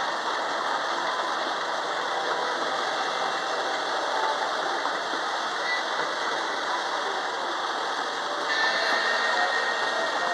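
Theme park train running, a steady mechanical clatter and rumble that gets a little louder near the end.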